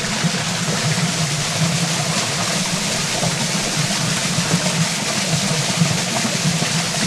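Waterfall pouring with a loud, steady rush of falling water.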